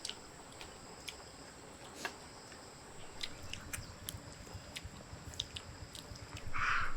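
Eating sounds at a family meal: chewing, with scattered small clicks of tableware. A brief rustling burst comes near the end.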